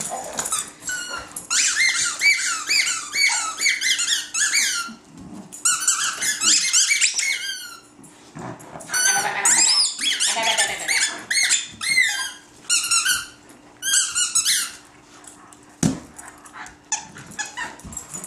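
Rubber squeaky dog toy squeaked over and over in rapid runs of high squeals as a dog chews it, with short pauses between runs.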